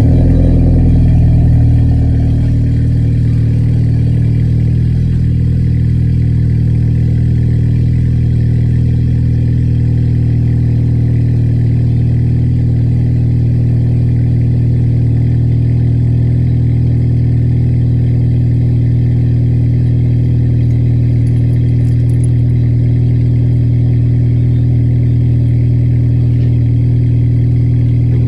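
Audi A4 (B8) engine from a cold start: it catches just as the sound begins, runs a little louder for the first two seconds, then settles into a steady, loud fast idle. The loudness is typical of a cold start, not how the car normally sounds.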